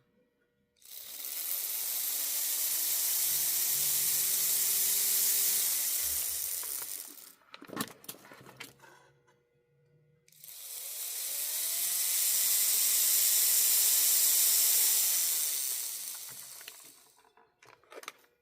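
Athearn HO-scale Dash 8-40B model locomotive's electric motor and gearing run up to speed, held, and wound back down, twice, with a whine that rises and falls each time over a steady hiss. Brief clicks and knocks come between the two runs and near the end. It is running poorly.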